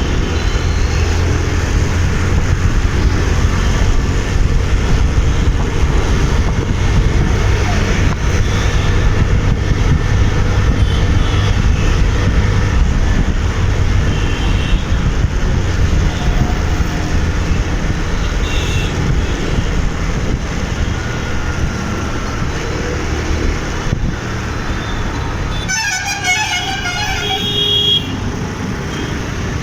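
Riding a motorcycle through city traffic: a steady low rumble of engine and road noise, with vehicle horns tooting now and then. Near the end, a horn sounds loudly for about two seconds with a rapid warbling, pulsing tone.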